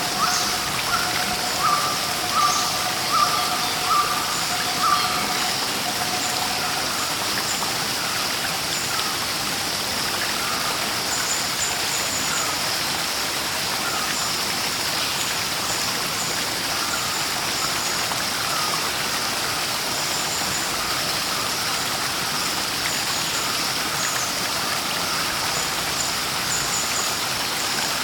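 Steady rush of running water, with birds calling over it. A short call repeats about once a second for the first six seconds, and faint high chirps come and go throughout.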